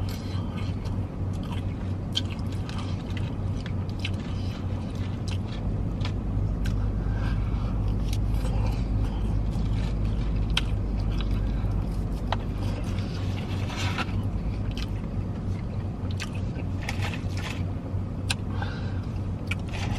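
Chewing and scattered clicks and scrapes of food and packaging being handled, over a steady low hum inside a car.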